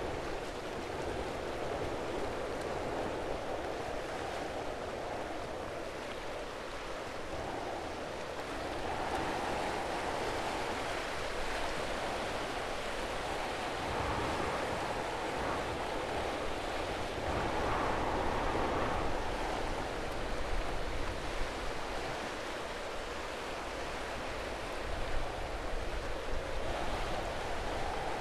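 Steady rushing ambient noise that swells and eases every few seconds, loudest a little past the middle.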